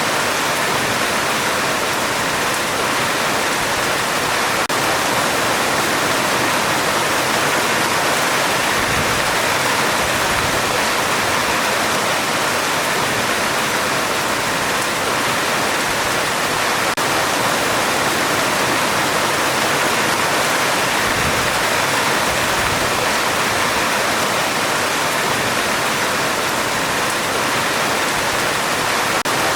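Heavy rain falling steadily on a metal roof, an even, unbroken hiss.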